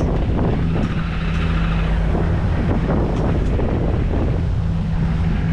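Volvo Penta D3 110 hp five-cylinder marine diesel in a Dufour 520 Grand Large sailing yacht, running steadily under way at about 2,000 rpm. Wind on the microphone and water noise sound along with it.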